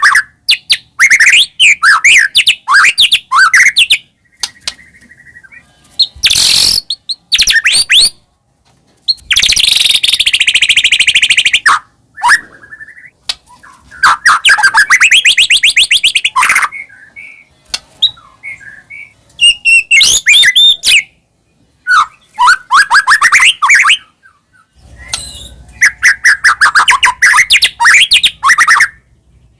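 White-rumped shama (murai batu) singing loudly in full song: bursts of varied whistled phrases broken by short pauses, with two long, rapid trills near the middle.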